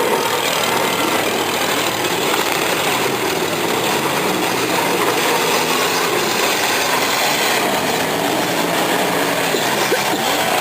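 Demolition derby car engines running and revving, loud and continuous, with pitch rising and falling now and then.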